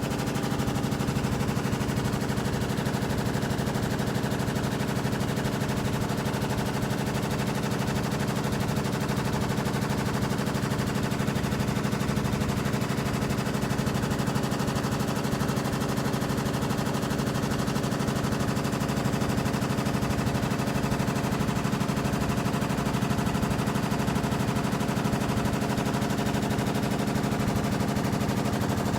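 LG top-load washing machine spinning: a steady motor hum with a rapid, even pulsing that holds constant throughout.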